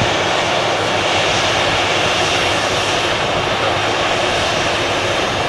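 Jet engines of a Boeing 737-800 airliner running with a steady, loud rush.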